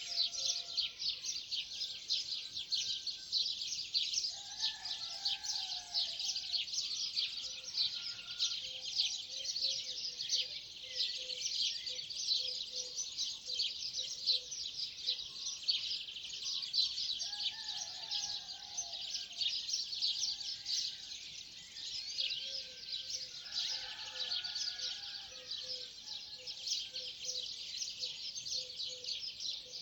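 A dense chorus of many small birds chirping without pause at sunrise. Lower, warbling calls come in three times, and a run of quick, low repeated notes sounds in the middle and again near the end.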